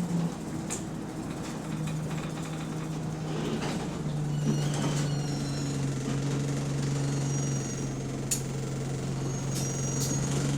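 The bus's diesel engine idles steadily with a low, even note after running down from speed; this bus has a leaking exhaust. A few clicks and brief high squeaks sound over it.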